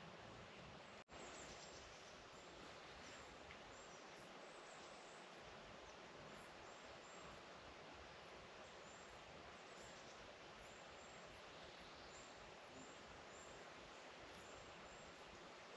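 Faint, steady hiss of light rain, with short high chirps repeating every second or so. The sound cuts out for an instant about a second in.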